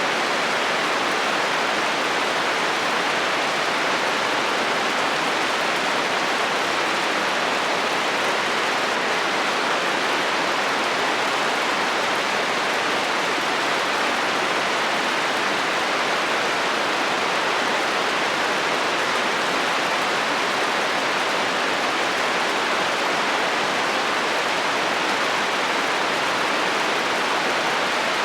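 Heavy rain falling on a metal roof: a steady, even hiss with no changes in strength.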